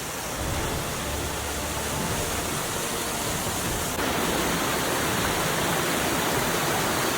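Waterfall rushing over rock, a steady dense roar of falling water that gets suddenly louder about four seconds in.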